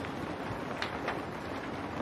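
Steady rain pattering on window glass, with a few heavier drops striking about a second in.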